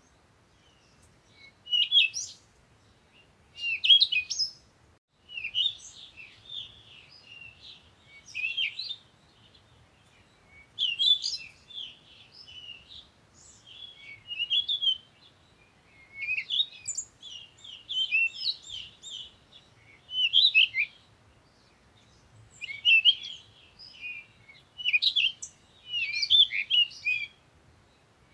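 Small birds chirping and twittering in short bursts of song, a new phrase every second or two.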